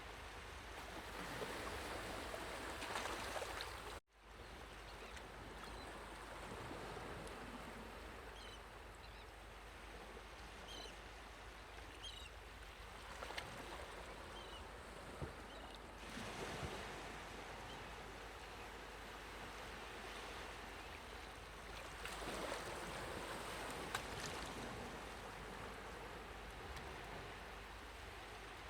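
Steady rushing of sea water and surf. It breaks off abruptly about four seconds in and swells again later, with a few faint high chirps in the middle.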